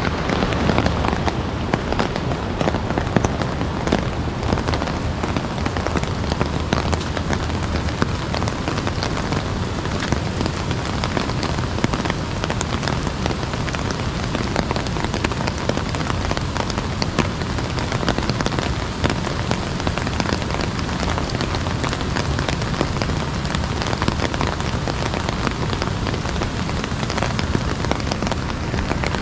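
Steady heavy rain pattering on an umbrella overhead: a dense, unbroken hiss of many small drop impacts.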